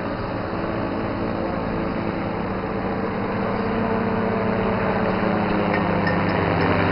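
Light aircraft's piston engine running steadily, getting louder over the last few seconds as power comes up.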